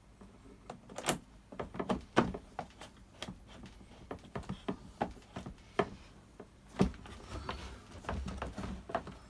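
Irregular clicks and knocks of hand work on a Stihl BR600 backpack blower's plastic housing parts as they are handled and fitted back together. There are a dozen or more sharp taps, some louder knocks, and no engine running.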